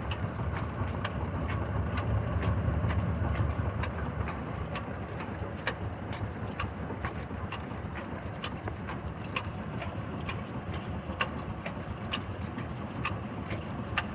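Old Ruston Hornsby stationary diesel engine running slowly: a low rumble with a sharp knock about twice a second, the rumble swelling for a couple of seconds early in the stretch.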